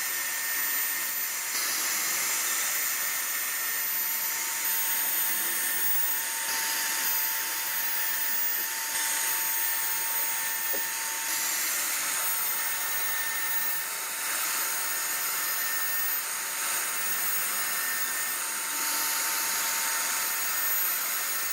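CNC router spindle running at high speed while carving wood: a steady whine over a hiss, shifting slightly in tone every few seconds.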